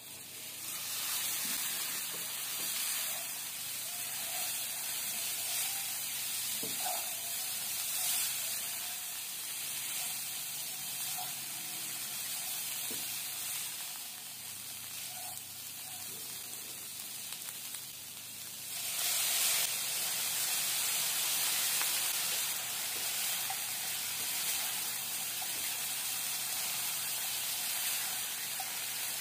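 Dried anchovies sizzling in hot oil and onion masala in a nonstick kadai as they are tipped in and stirred with a spatula. The hiss starts as the fish go in and grows louder about 19 seconds in.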